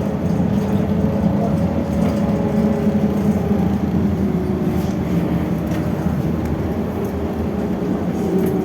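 Cabin noise of a BKM 32102 trolleybus on the move: a steady low rumble of running gear and tyres with a faint electric traction-motor hum.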